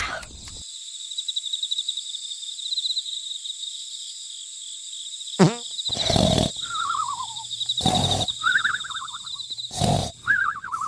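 Animal roars, three loud roars about two seconds apart in the second half with falling calls between them, over a steady high trill.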